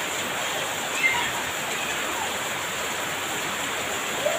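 Heavy rain pouring down in a steady, even hiss, with a brief sharp tap about a second in.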